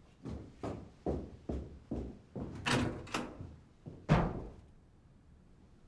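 Footsteps: about ten heavy, dull steps at an even pace of roughly two a second, the loudest about four seconds in, then they stop.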